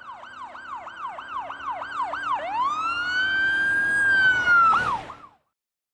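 Emergency vehicle siren in a fast up-and-down yelp, about three sweeps a second, that changes a little before halfway to one long slow wail, then gives two quick whoops and cuts off suddenly. It grows louder as it goes.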